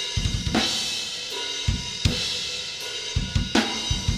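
Playback of a metal band's recorded mix, the drum kit up front: kick and snare hits under washing cymbals, run through a VCA-style bus compressor plugin.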